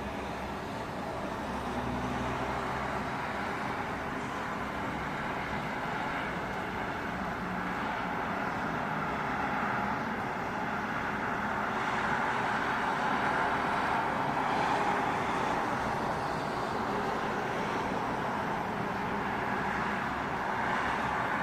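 Steady outdoor city noise: a continuous hiss of traffic, growing slightly louder over the stretch, with a faint low engine hum in the first few seconds.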